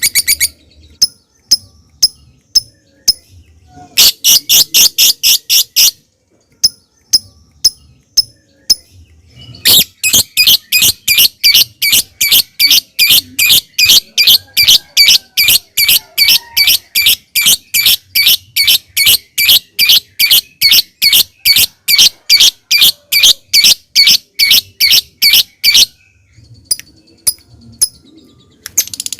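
Lovebird calling: spaced sharp single tick notes (ngetik), a short burst of rapid calls about four seconds in, then a long run of fast repeated shrill calls (ngekek) lasting about sixteen seconds, ending with a few more ticks.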